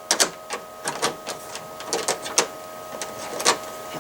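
Small sharp clicks, about seven at irregular spacing, from a Lionel model train coupler knuckle being opened by its side tab and snapping shut by hand. A faint steady hum runs underneath.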